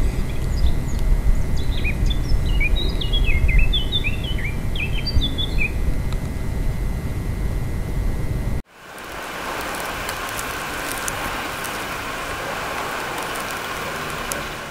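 A songbird twittering in a quick run of short, high chirps over a low rumble. About nine seconds in, the sound cuts off abruptly and gives way to a steady, even hiss.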